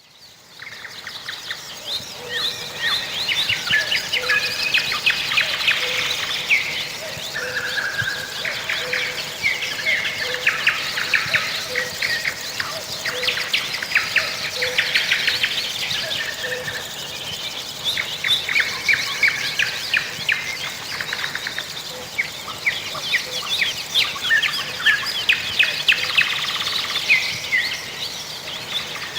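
A chorus of many songbirds singing at once, dense overlapping chirps and trills, with a low, evenly repeated call under them through the first half. It fades in at the start.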